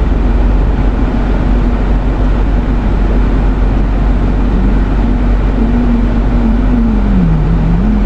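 Steady car-cabin rumble, with a low engine hum that drifts slowly in pitch and dips about seven seconds in.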